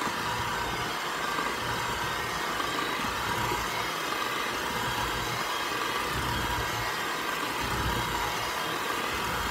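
Black+Decker electric hand mixer running steadily at medium speed with a steady motor whine, its beaters mixing wet ingredients into flour in a glass bowl.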